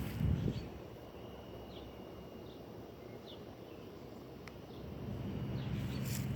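A small bird chirping: short, high, downward-sliding chirps, one every second or so, over a faint steady high hum. A low rumble comes in near the end.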